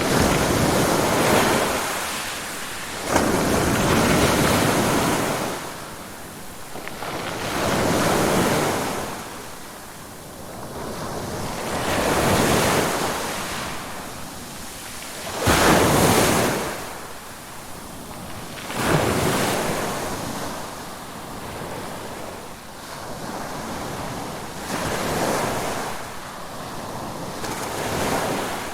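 Ocean waves surging in and drawing back one after another, a swell of rushing surf every three to four seconds. Two surges, a few seconds in and about halfway through, come in with a sharper crash and are the loudest.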